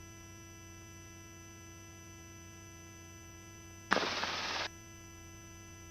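Faint steady electrical hum with several constant high tones on the helicopter's headset intercom line. About four seconds in, a sharp click and a burst of rushing noise last under a second and cut off abruptly, as a voice-activated headset microphone opens and closes.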